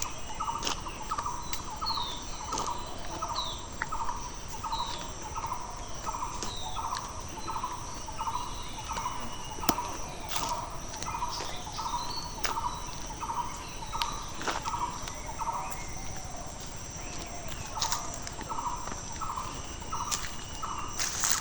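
A bird repeating a short low note about three times a second, without a break, over a steady high insect drone. Another bird gives short high chirps in the first few seconds, and there are occasional light clicks.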